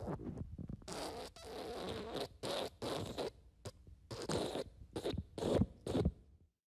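Fart sound effect: a rapid string of about a dozen short, sputtering farts.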